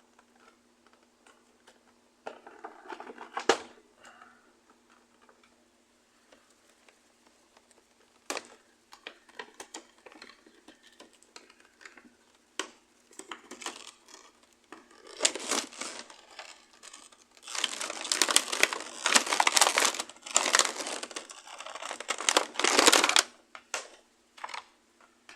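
Action figure packaging being handled and opened: irregular crinkling and tearing with a few sharp clicks, rising to a stretch of loud, dense crinkling over the last several seconds.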